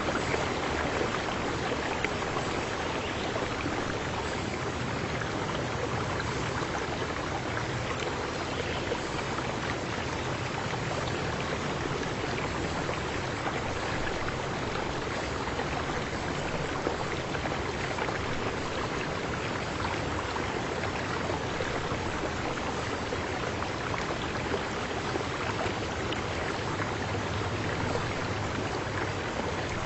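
Water of a stream flowing, a steady even rushing with no breaks.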